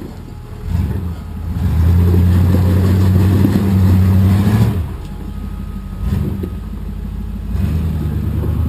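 Rock-crawling off-road vehicle's engine revving under load as it climbs, held up for about three seconds, then dropping back and rising again near the end.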